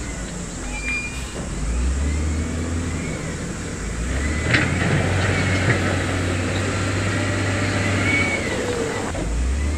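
Heavy construction machinery's engine running steadily, with thin high squeals and a sharp knock about four and a half seconds in.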